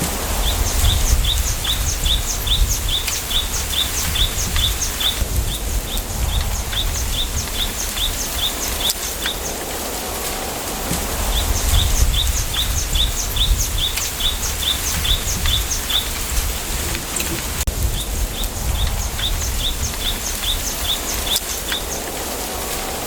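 A small bird repeating a short, high chirp about three times a second, in runs of a few seconds with brief pauses between. Behind it, wind rustles through a bamboo grove, with a low rumble that swells and fades with the gusts.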